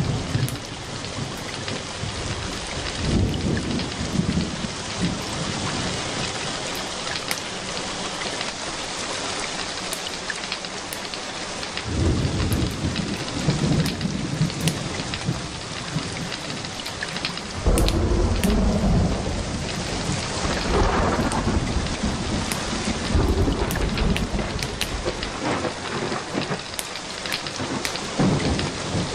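Steady rain with rolls of low thunder that swell up several times.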